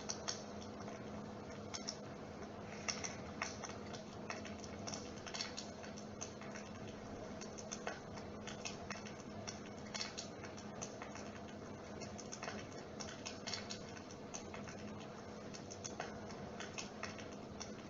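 Dimplex mist-effect electric fire running with a steady low hum, over which come irregular, closely spaced soft clicks and crackles.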